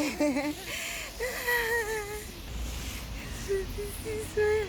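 A toddler's high-pitched, wordless voice: a few short sing-song sounds, then a longer drawn-out falling one, then short notes near the end.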